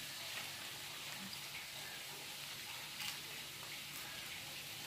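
Fried noodles sizzling softly and steadily in a wok, with a light click about three seconds in.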